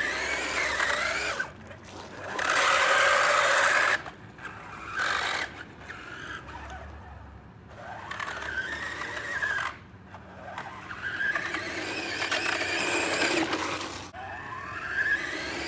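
Car tyres squealing as the car drifts, in several long skids whose pitch rises and falls, with a loud stretch of tyre noise about three seconds in.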